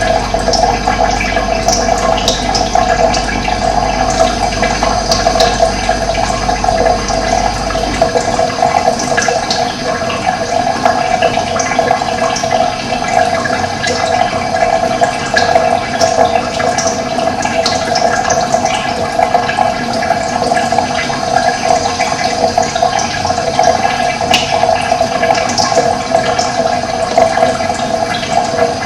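Steady rushing of flowing water, with short bird chirps scattered over it.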